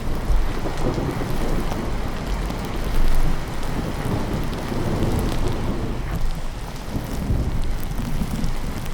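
Steady rain with low rolling thunder rumbling underneath, swelling about three seconds in.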